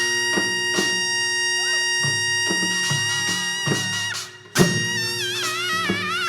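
Korean traditional music accompanying a Jindo drum dance: a wind instrument holds a long note with wavering vibrato over repeated drum strokes. The held note breaks off about four seconds in, and a loud drum stroke opens the next phrase.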